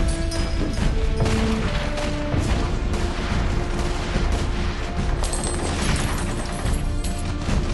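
Dense, continuous gunfire from many weapons in a film battle soundtrack, over a musical score with sustained held notes.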